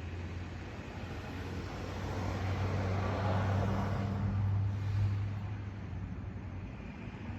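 A vehicle passing by: its noise builds up, peaks a few seconds in and fades away, over a steady low hum.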